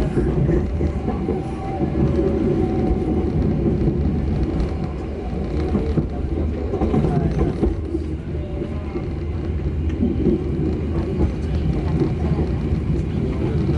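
Passenger train in motion: the steady rumble and rattle of the carriage running along the track.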